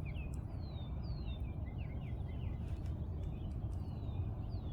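Birds chirping, many short calls that slide downward in pitch, over a steady low rumble.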